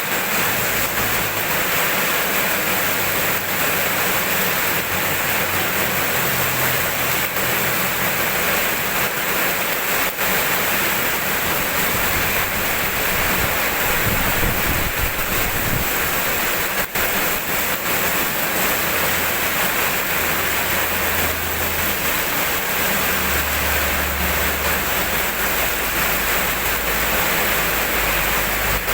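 Steady rain falling, a continuous even hiss with no pauses, and a low rumble that swells and fades underneath at times.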